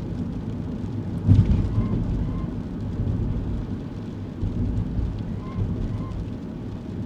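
Kei car driving, heard from inside the cabin: a steady low rumble of road and engine noise, with one thump about a second in. Faint short squeaks come now and then, in pairs.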